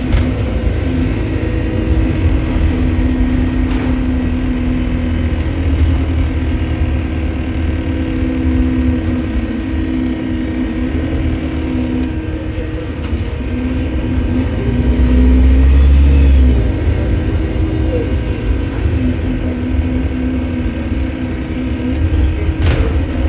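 Bus engine running under way, heard from inside the bus, with a steady drone and a deep rumble that swells about two-thirds of the way through. A very high whistle rises and falls twice, the strange noise put down to a leaking turbo.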